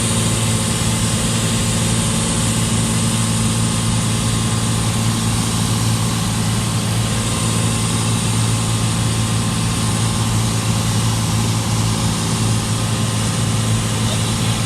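Cessna 182's piston engine and propeller running steadily, heard inside the cabin in flight: a constant low engine hum under a steady rush of noise.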